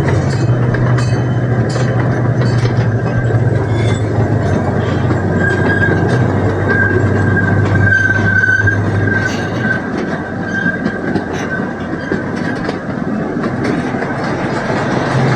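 Zoo train running along its track with a steady low hum and the clatter and rumble of its wheels on the rails. A thin, high wheel squeal sounds from about five seconds in until about eleven seconds in.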